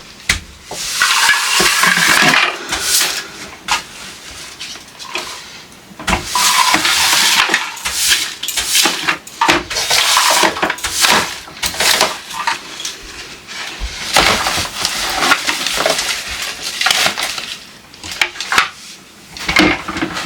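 Dishes, pots and cutlery being handled and put away, clattering with many sharp clinks and knocks.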